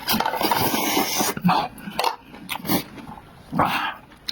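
A person eating noisily close to the microphone: a steady noisy rush for about the first second and a half, then separate wet chewing smacks.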